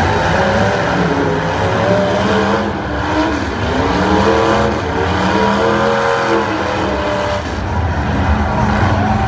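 Several demolition derby cars' engines running hard together. In the middle, one engine's pitch rises and falls as it is revved over the steady running of the others.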